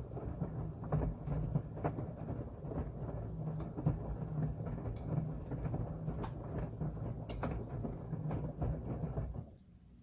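Washing machine running: a steady low hum with irregular knocks and clicks on top, which stops abruptly a little over nine seconds in.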